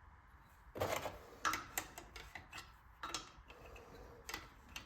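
Irregular metal clicks and knocks of hand tools and small engine parts being handled, about half a dozen sharp taps spread unevenly.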